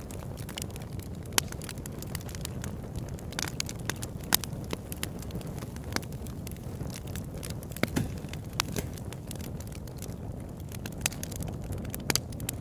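Large log burning in a converted oil-drum fire pit, crackling with frequent irregular sharp pops over a steady low rumble.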